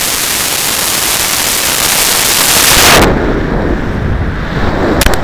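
High-power rocket motors running with a loud, rushing roar that builds, then cuts off suddenly about three seconds in at burnout, leaving a lower rumble. A few sharp cracks come near the end.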